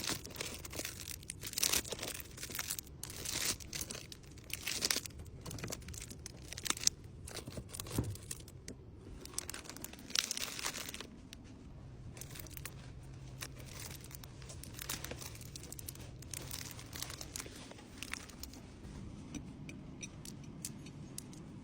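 Order-packing handling noise: irregular crinkling, rustling and tearing of packaging, broken by small clicks and taps as items are handled and packed.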